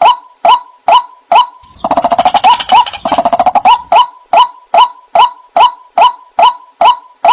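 White-breasted waterhen (ruak-ruak) calling: one short note repeated evenly, a little over twice a second. From about two to four seconds in, a fast chattering run of notes overlaps the regular call.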